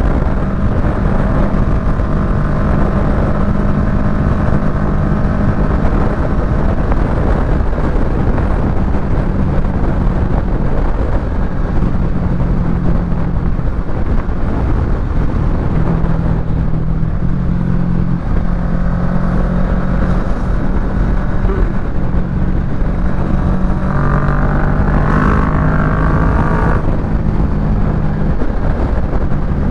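Kawasaki Ninja 650 parallel-twin engine through a Yoshimura Alpha carbon-fibre full exhaust, heard while riding. The engine note steps up and down in pitch as the rider changes speed and gears, over a steady rush of road and wind noise. A higher-pitched tone comes in briefly near the end.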